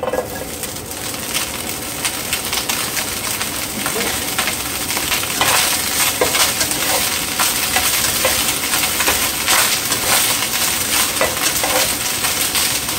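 Washed broccoli florets going into hot oil in a frying pan and being stirred: a sizzle with crackling and spattering starts suddenly as they drop in. It grows louder over the first several seconds and then keeps on steadily.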